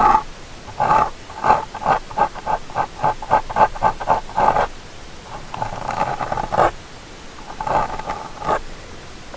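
Ear-cleaning tool scraping and rubbing at an ear right against the microphone: a run of quick scratching strokes, several a second, from about a second in until about four and a half seconds, then two slower, longer rubbing passes.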